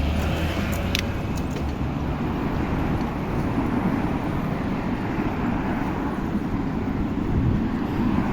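Road traffic noise: a steady rumble of vehicles on the road, with a low engine hum in the first two seconds or so.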